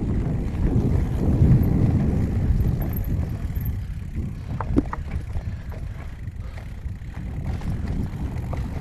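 Wind buffeting a strap-mounted recorder on a moving mountain bike, a steady low rumble mixed with tyre noise on the trail. It is loudest about a second and a half in and eases a little after, with a few sharp clicks of the bike rattling around the middle and near the end.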